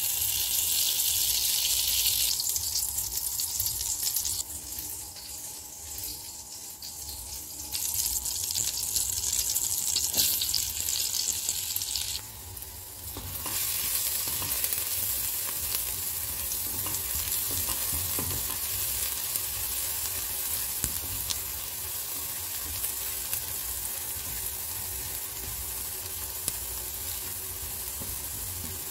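Butter sizzling in a stainless-steel skillet over medium heat, with minced garlic frying in it and a spatula stirring and scraping across the pan. The sizzle comes and goes for the first dozen seconds, then holds steady.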